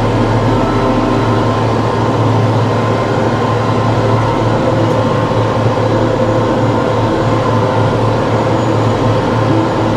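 TYM T654 tractor's diesel engine running at a steady speed, a loud, even drone with no change in pitch.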